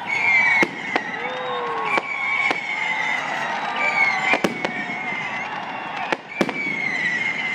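Aerial fireworks: rockets launching and bursting in a string of sharp bangs, about one a second and some in close pairs, over a steady crackling hiss and high whistling tones.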